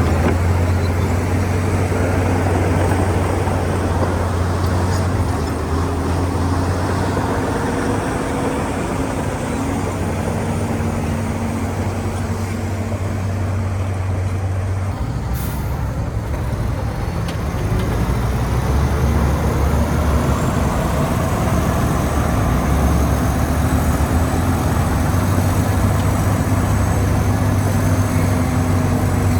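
Heavy diesel earthmoving machinery running steadily under load. The engine note drops about halfway and rises again a few seconds later, with a brief hiss in the middle.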